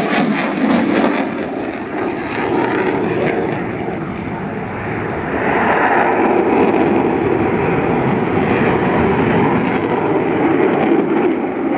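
A display aircraft's engines running in a steady pass overhead. The sound swells about five seconds in and holds.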